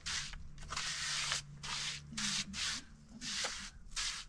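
A series of rough scraping or rubbing strokes, roughly two a second.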